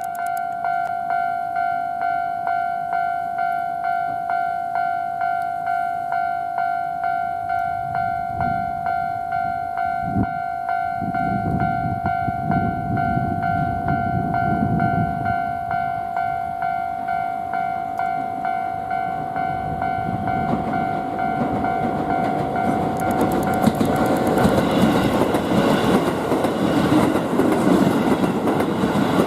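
Keisei 3050 series electric train approaching and passing, its rumble building and then clattering over the rail joints near the end. Under it, a level-crossing warning bell rings steadily about twice a second and stops shortly before the train goes by.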